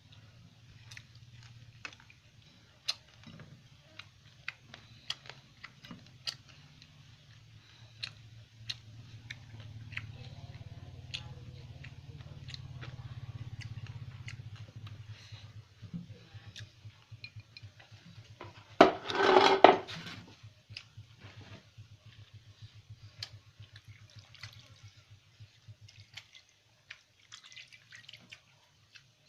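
Wet mouth noises of someone eating: chewing, with scattered smacking clicks throughout. A steady low hum runs under most of it and stops near the end. About two-thirds of the way through there is one louder, pitched sound lasting about a second.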